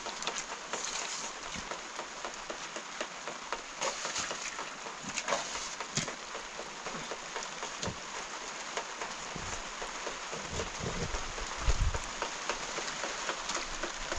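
Steady rain falling, an even hiss with scattered sharp drips and taps, and a few low thumps about ten to twelve seconds in.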